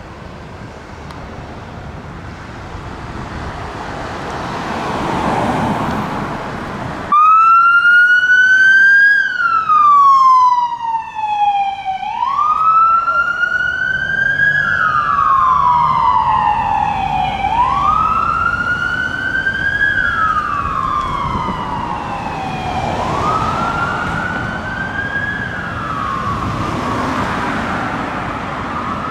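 Road noise swelling for several seconds, then suddenly a loud emergency-vehicle siren on a slow wail, each cycle rising for about two seconds and falling for about three, with road noise beneath.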